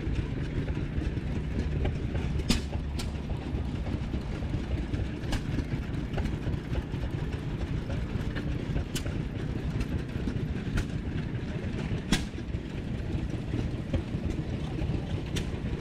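Vintage engines running with a steady low rumble, cut through by an irregular sharp pop every second or few, the loudest about two and a half and twelve seconds in.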